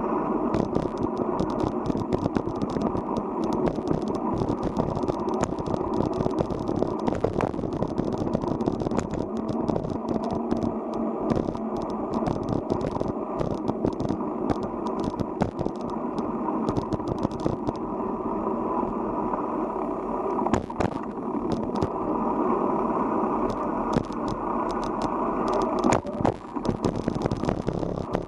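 Bicycle riding over a rough forest road: a steady rumble of tyres and wind with constant rattling clicks.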